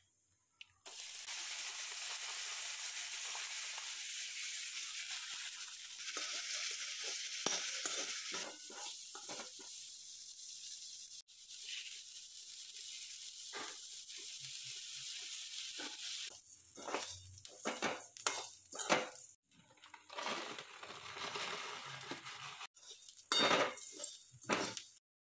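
Hot oil sizzling steadily in a wok as peanuts and chickpeas, then chopped onions, fry and are stirred. After about 16 seconds the sizzle gives way to irregular rustling and scraping as puffed rice is poured in and stirred.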